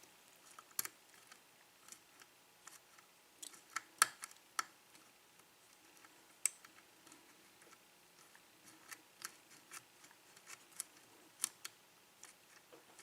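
Faint, irregular small metallic clicks and scrapes of a lock pick and tension wrench working the pins of a 5-pin pin-tumbler lock during single-pin picking.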